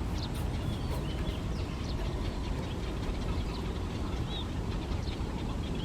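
Small birds giving short, high chirps every second or so over a steady low rumble.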